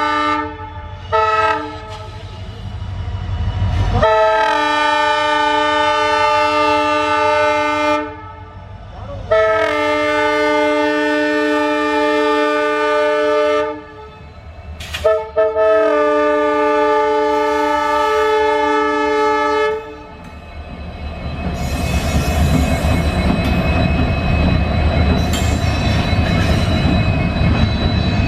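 Multi-tone air horn of an EMD WDP4-series diesel locomotive. It gives a short toot, then three long blasts with a brief toot between the last two. After that comes the rising rumble and wheel clatter of the train running past.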